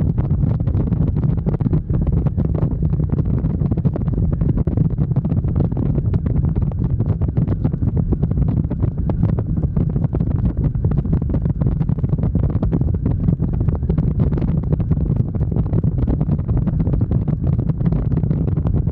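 Motorcycle on the move: a steady low engine and road rumble under heavy wind buffeting on the microphone.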